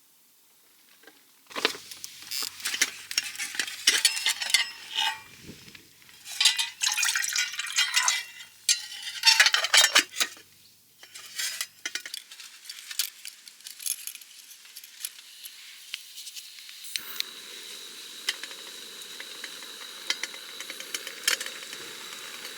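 Metal camp cookware and utensils clattering and clinking in quick, irregular handling. About 17 seconds in, a steady hiss with a thin high tone starts.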